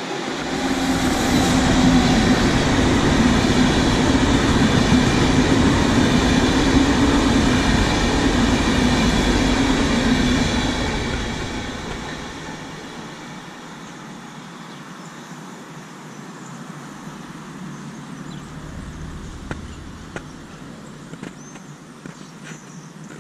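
Electric passenger train passing close by on the rails: a loud, steady rumble of wheels on track with a low hum, which fades away after about ten seconds as the train draws off.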